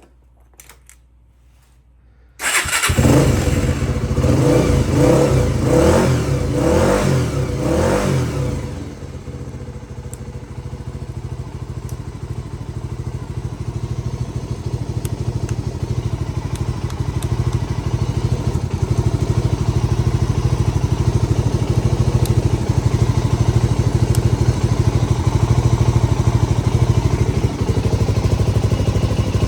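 Honda GB250 Clubman's single-cylinder four-stroke engine starting about two seconds in and revved several times, then settling into a steady idle.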